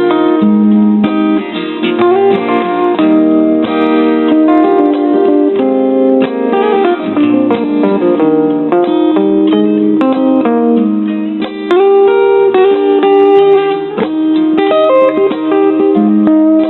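Instrumental break of an easy-listening ballad: guitar playing a melodic solo over a chord backing, with no singing.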